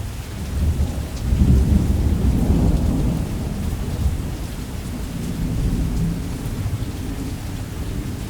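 Heavy rain with a low rumble of thunder that swells about a second in and slowly rolls away.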